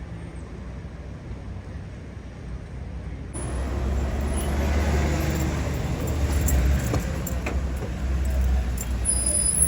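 Street traffic: motor vehicle engines running with a low rumble, which becomes louder and fuller about three seconds in.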